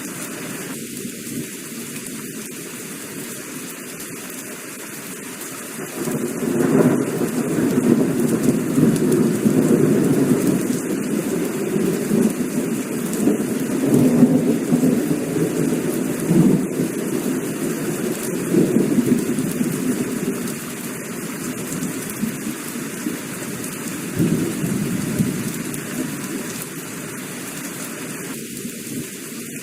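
Heavy rain falling steadily, with a long roll of thunder that builds about six seconds in, rumbles on for some twenty seconds in swells and fades out near the end.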